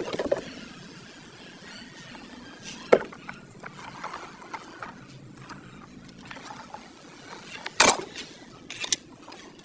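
A few separate sharp knocks and clatters over a faint steady background, typical of parts being handled or worked on at a workbench. The loudest comes near the end.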